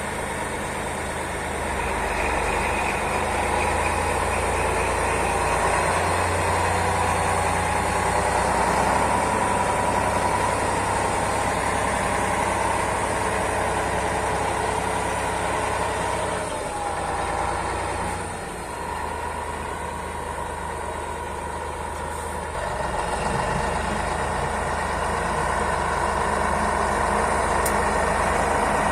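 Turbocharged YaMZ-236 V6 diesel of a T-150 wheeled tractor running steadily, getting louder about a second and a half in, then easing off for a couple of seconds past the middle before picking back up.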